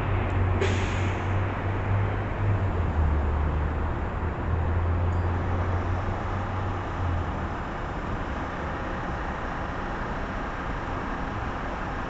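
Red Line subway train standing with its doors shut, giving off a steady low hum that cuts out about seven seconds in, over a constant rush of background traffic noise.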